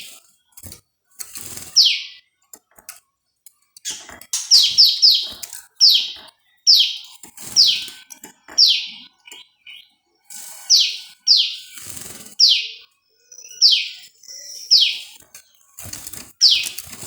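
Prenjak lumut, a small prinia-type songbird, calling repeatedly: short, sharp notes that each sweep downward in pitch, given singly or in quick runs of two or three, with clicks and rustles between them.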